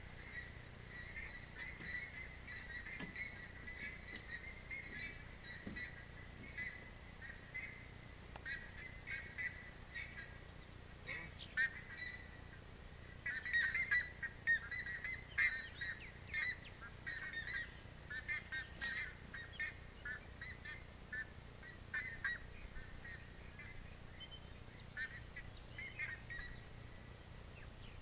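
Faint, short bird calls repeating over and over, busiest about halfway through.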